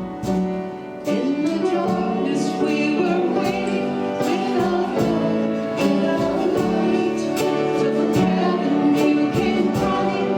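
Church worship music: keyboard and band playing with voices singing, swelling after a brief dip about a second in.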